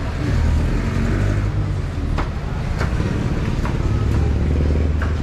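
A motor vehicle's engine running close by, a steady low drone with a few short clicks over it.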